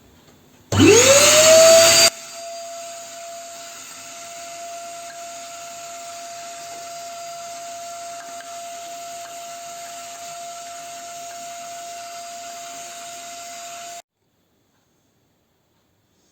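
Vacuum cleaner switched on about a second in, its motor spinning up with a rising whine, then running steadily as it cleans out a pellet stove. It cuts off suddenly near the end.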